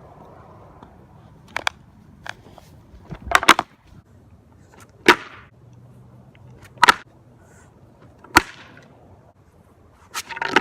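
Bare skateboard deck with no trucks or wheels slapping against the ground during repeated ollie attempts. About six sharp slaps come a second or two apart.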